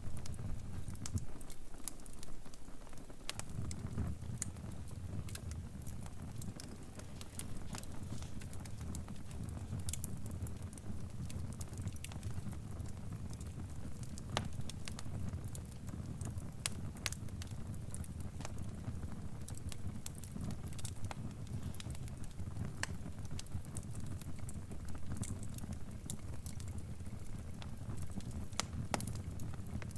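Fire crackling: a steady low rumble of burning with scattered sharp pops and snaps.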